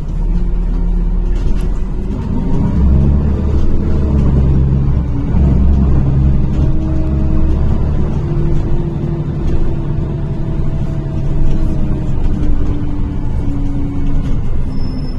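NefAZ-5299 city bus engine and drivetrain heard from inside the passenger cabin, pulling away and accelerating. A steady low hum strengthens from about two seconds in, with whining tones that rise and then fall in steps toward the end.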